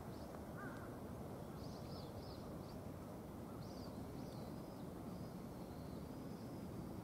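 Faint outdoor ambience: a steady low background noise with several short, high chirping bird calls between about one and four seconds in.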